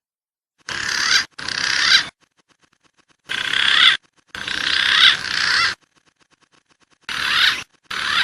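Recorded wild pigeon calls from a bird-lure track: six short bursts of rough, noisy calling with rising and falling notes, each starting and cutting off abruptly with silent gaps between.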